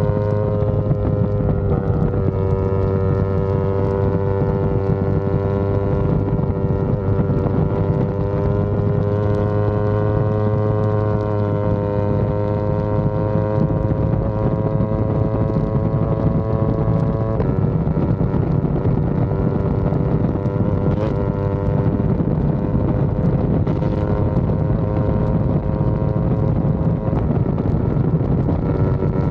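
Yamaha R25's 249 cc parallel-twin engine running at steady high revs while the bike is ridden, its note holding nearly level with small rises and dips and a slight drop in pitch about seventeen seconds in. Wind noise on the microphone underneath.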